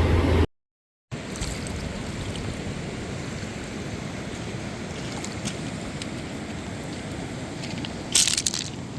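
A river rushing steadily. It begins after a brief dropout to silence, and a short high crackle comes about eight seconds in.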